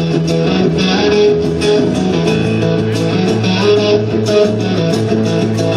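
Live band playing the instrumental intro of a song: strummed guitar chords, with a bass line joining about halfway through.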